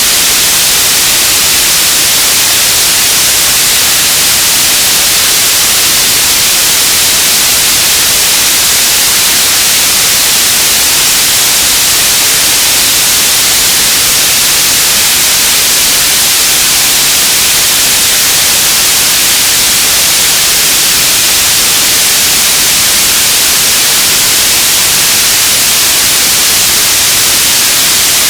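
Radio static: a loud, steady hiss of noise, brightest in the high frequencies, unchanging throughout.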